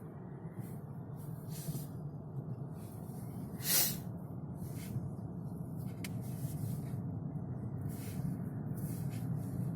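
Steady low rumble of a car driving, heard from inside the cabin, with a brief sharper hiss about four seconds in.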